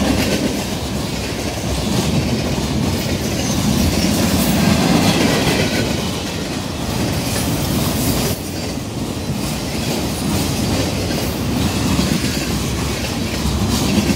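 Freight cars of a manifest train rolling past close by: a continuous rumble of steel wheels on the rails that swells and eases a little as the cars go by.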